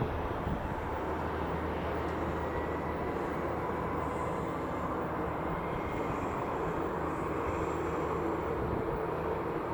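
Private jet's engines running steadily at a distance, an even rush of noise with a faint high tone.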